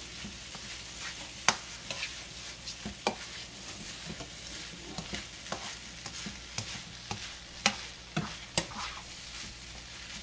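Pork fried rice with egg sizzling on a griddle as it is stirred. Irregular sharp clicks of the utensil against the cooking surface sound over a steady sizzle.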